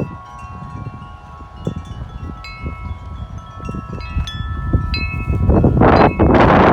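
Several wind chimes ringing steadily in strong wind, many overlapping tones sounding and sustaining. From about five and a half seconds in, a loud gust of wind blows across the microphone and partly covers the chimes.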